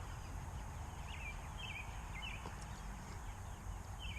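Bird chirping: a regular series of short, high chirps, about two a second, with steady low background noise.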